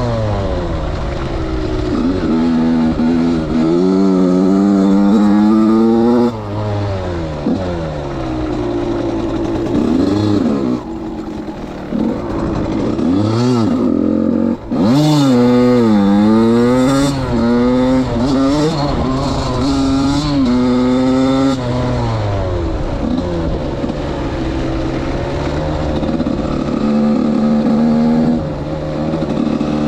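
Suzuki RM85's 85 cc single-cylinder two-stroke engine being ridden, revving up in repeated rising sweeps and backing off between them. The revs drop sharply a few times, around a third and halfway through.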